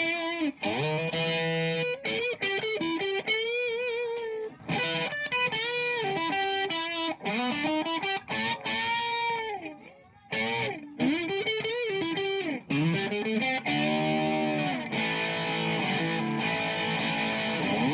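Electric guitar played through a Fats Sound Laboratory Fats Accel effects pedal. Single-note lead phrases with string bends and vibrato, broken by short pauses.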